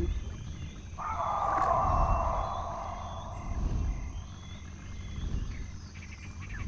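A sound-designed dinosaur roar: a rough, drawn-out roar that starts suddenly about a second in and fades over about two seconds, over a low rumbling background with faint bird chirps.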